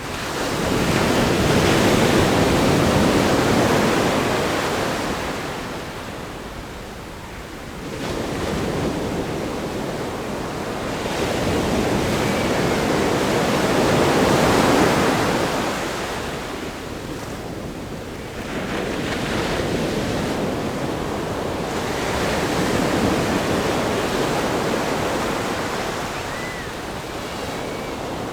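Ocean waves crashing on a rock groin and washing up a sandy beach: long swells of surf noise that rise and fall, with the loudest breaks about a second in and again around the middle.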